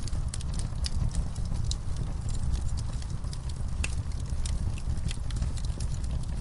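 Wood fire burning in a fireplace: a steady low rumble with irregular sharp crackles and pops, several to the second.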